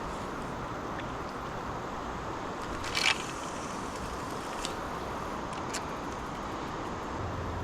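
Steady rushing of river water, with a brief scrape or splash about three seconds in and two faint clicks later.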